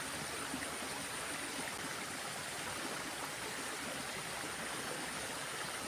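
Steady rushing of a small stream's running water, an even hiss with no breaks.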